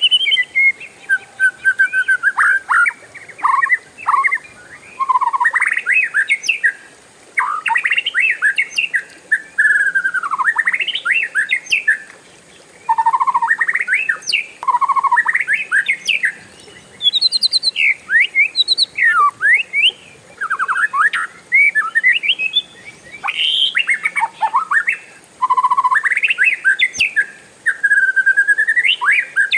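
Oriental magpie-robin (kacer) singing a long, varied song of whistled phrases that slide up and down, mixed with quick trills, broken by short pauses every few seconds.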